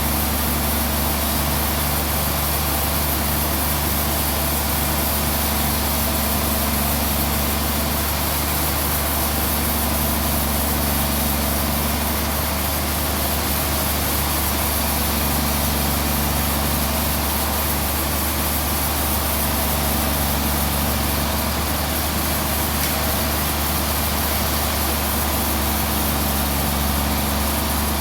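Sawmill machinery running steadily: a deep, even engine hum with a constant hiss above it, unchanging throughout.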